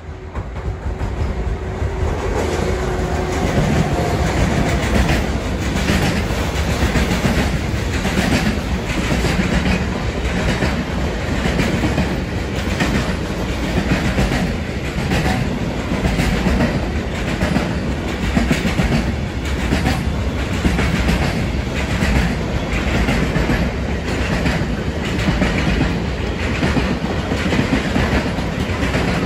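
Intermodal freight train passing close by, its wheels clacking in a steady, regular rhythm over the rail joints as the container wagons roll past. It grows louder over the first few seconds as the train arrives, then holds steady.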